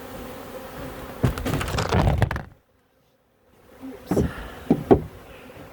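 Honeybees buzzing around an open hive, with rustling and knocking as hive parts are handled. The sound cuts out completely for about a second midway, and a few sharp knocks follow.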